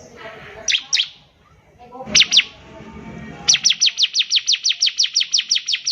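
Bar-winged prinia (ciblek) singing: two sharp downslurred notes, two more about two seconds in, then from about midway a fast even run of downslurred notes, about six a second.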